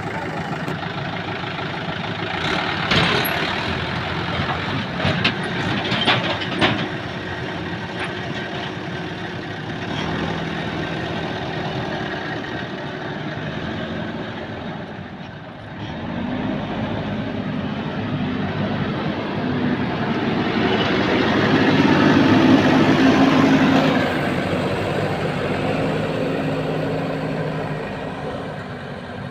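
Heavy diesel vehicle engine running, with several sharp knocks in the first seven seconds; the engine grows louder about two-thirds of the way through, then eases off near the end.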